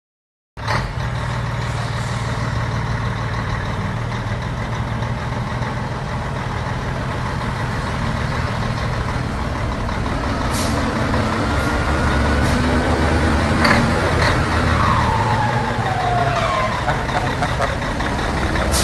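Diesel engine of an old Fiat heavy truck (Fiatão) running steadily, starting about half a second in. A few light clicks and a short falling whistle come in the second half.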